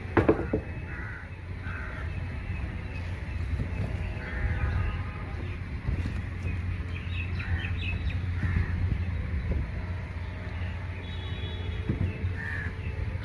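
Crows cawing on and off, a scattering of short calls, over a steady low rumble.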